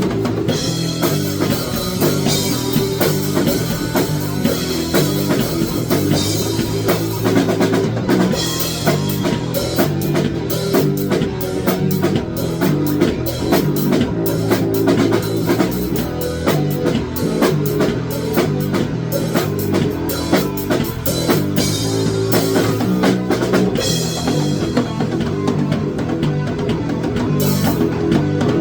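Rock music with drum kit, bass and guitar playing a steady beat.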